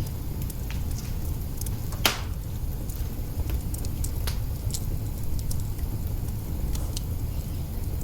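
Wood fire burning in an open kitchen hearth: a steady low rumble of flames with scattered small crackles and one loud pop about two seconds in.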